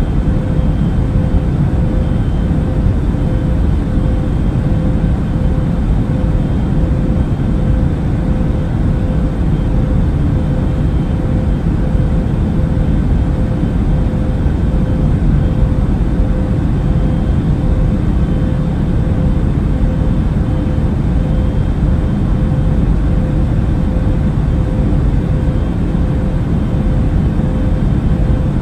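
Steady drone of an airliner cabin in flight: low, even engine and airflow rumble with a faint steady hum, unchanging throughout.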